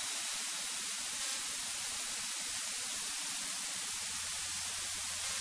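Steady static hiss on the cockpit's recorded headset audio between transmissions, with a faint low hum joining about four seconds in.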